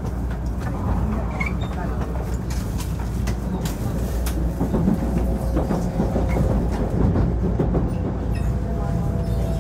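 Cabin noise of a 500 series Shinkansen train running on a viaduct, heard from inside the car: a steady low rumble with scattered clicks and a faint steady tone or two near the end.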